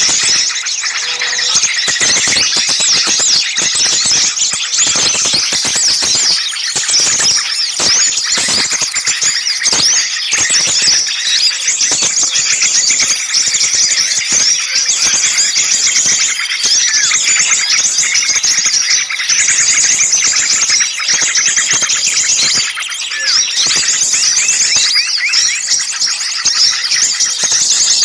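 A dense chorus of many small songbirds calling noisily at once, with rapid overlapping high chirps, trills and squeals. These are the agitated, excited calls used in bird-lure (pikat) recordings to draw other small birds in.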